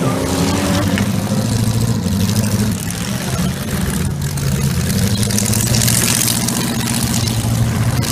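Several demolition derby cars' V8 engines running together, a steady engine note with a rev that settles in the first second.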